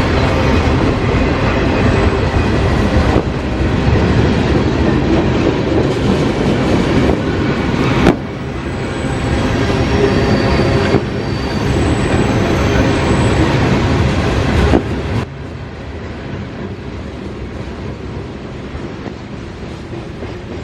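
Freight cars of a CSX mixed freight rolling past at about 25 mph, with the rumble and clatter of steel wheels on the rail and a few thin high wheel squeals. The sound drops sharply about fifteen seconds in.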